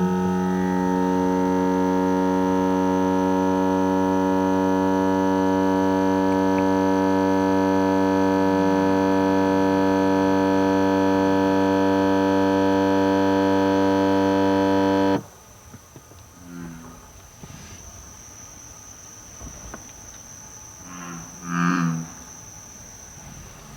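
A 17-series Toyota Crown making its abnormal noise: a steady, loud low hum with many overtones, held for about fifteen seconds and then cutting off suddenly. Two short, fainter low croak-like sounds follow, the bullfrog-like noise the owner is documenting.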